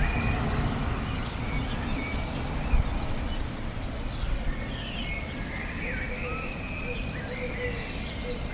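Several birds calling in short chirps and whistles over a steady wash of rain.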